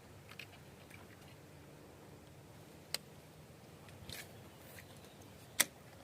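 A few short, sharp clicks over a faint steady background. The loudest comes near the end, another sharp one comes about halfway through, and there is a small cluster just after.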